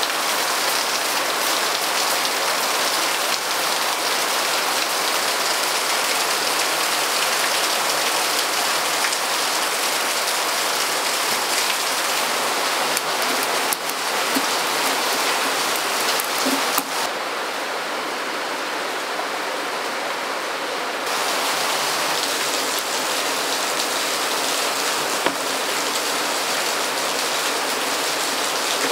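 Steady hiss of falling or running water, like rain, with scattered small ticks. About two-thirds of the way through, the high end drops away for about four seconds and then returns.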